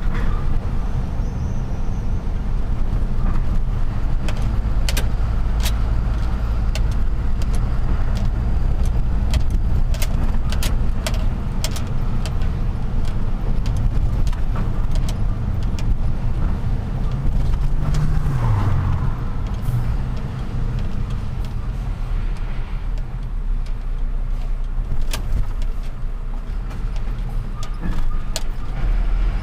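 Truck's diesel engine running steadily on the move, with many scattered sharp clicks and rattles. About eighteen seconds in, the engine note drops as the revs fall.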